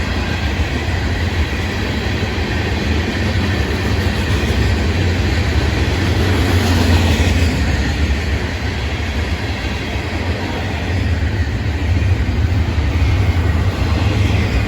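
Long freight train's cars rolling steadily past, a continuous deep rumble of wheels on rail.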